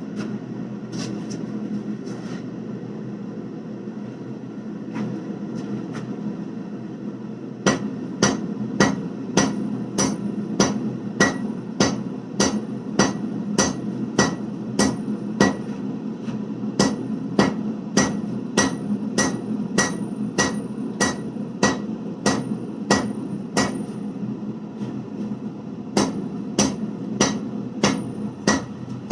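Hand hammer striking a hot twisted damascus billet (1095 and 15N20 steel) on an anvil with steady light blows, about two a second, each with a brief high ring, to forge-weld the seams of the twist without moving material. The blows start several seconds in, pause briefly near the end and resume, over a steady low roar.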